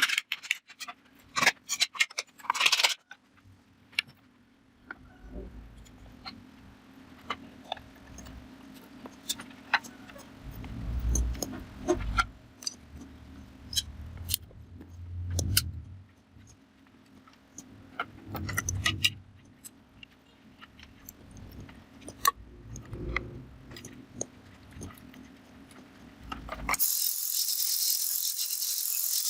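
Irregular metallic clinks and taps of nails and wooden bars being handled, with a few louder low thumps. About 27 s in, a steady high hiss takes over.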